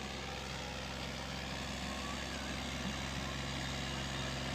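A New Holland 480S tractor's diesel engine running steadily under load while it hauls a loaded sugarcane trolley up a climb, growing slightly louder.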